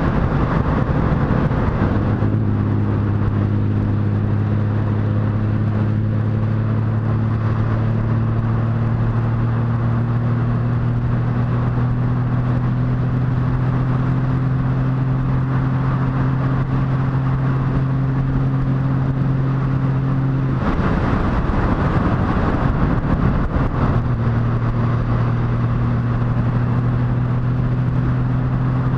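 Motorcycle engine running at a steady cruise, its low hum creeping slowly higher in pitch. The engine tone drops out briefly near the start and again for about three seconds later on, leaving only a rushing noise before it returns.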